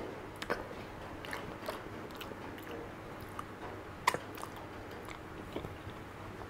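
Close mouth sounds of a person eating soft, creamy durian flesh: quiet wet chewing with scattered smacks and clicks. The sharpest smack comes just after four seconds in.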